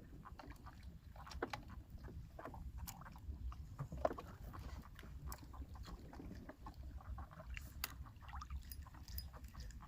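Fishing-boat sounds: a steady low rumble with many small, irregular clicks and knocks, one sharper knock about four seconds in.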